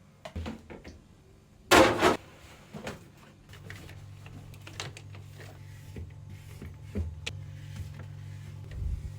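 Knocks and clatter of household objects being handled, with one loud rattling clatter about two seconds in. A steady low hum sets in partway through, with scattered clicks over it.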